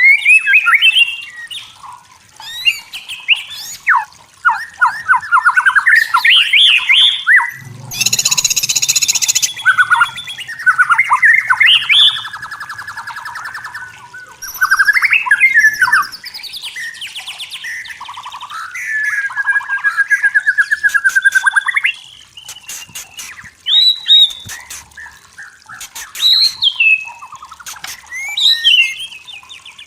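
White-rumped shama singing a long, varied song of whistled phrases, rapid trills and repeated notes, with a loud harsh burst about eight seconds in.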